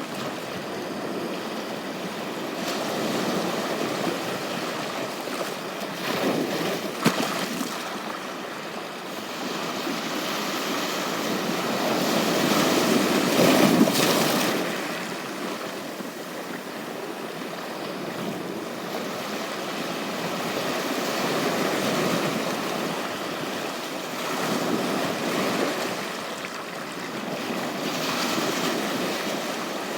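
Sea waves breaking and washing up a beach, rising and falling in slow surges, with the biggest swell about halfway through. A couple of sharp ticks come about seven seconds in.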